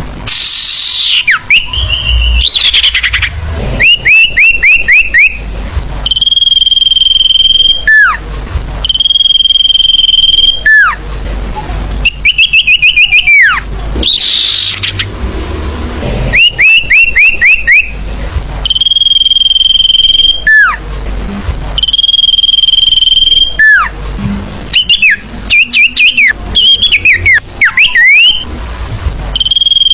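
Sirfu bird song played as a lure call. Quick runs of five or six down-slurred notes alternate with long, steady high whistles that each end in a dropping slur, and the phrases repeat every few seconds.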